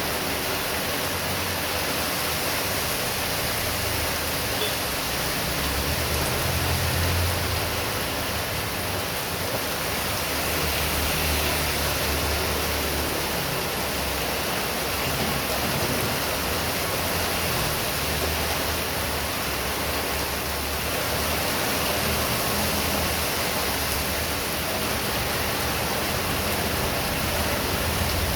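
Heavy rain falling steadily, a dense even hiss, with a low rumble of strong wind that swells and eases every few seconds.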